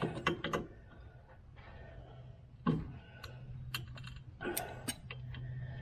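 Scattered light clicks and short scraping rubs of a new oil filter being threaded on and hand-tightened, over a faint steady low hum.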